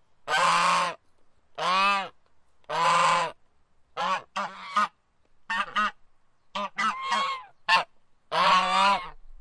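Domestic goose honking repeatedly: a few longer honks, then a run of quick, short honks, and a longer one near the end.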